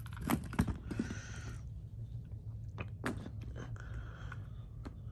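Handling noise from HO scale model locomotives being moved by hand: a few light clicks and knocks with short rustles, over a steady low hum.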